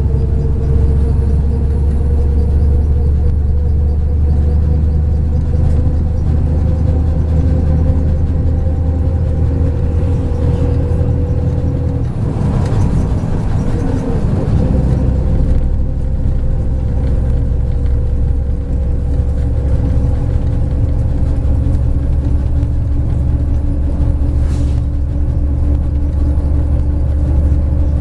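MAZ 103 bus engine running under way, with a heavy low rumble. The engine note climbs slowly, breaks into a rougher noise for a few seconds around the middle, then rises steadily again.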